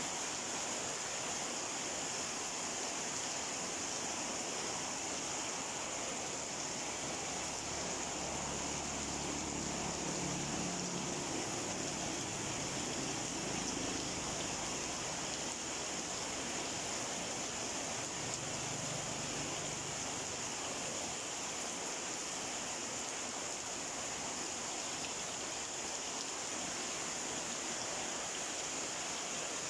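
Steady rain falling on leaves and wet ground, an even hiss that holds level throughout.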